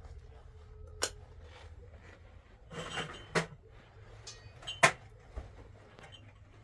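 Dishes and utensils being handled: three sharp knocks about one, three and a half and five seconds in, a short scrape just before the second, and a few lighter clinks.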